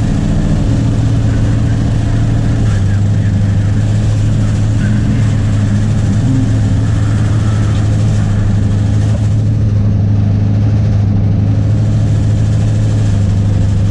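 Ford 302 Windsor V8 in an XF Falcon race car idling steadily at a high idle, with no revving. The idle is set too high.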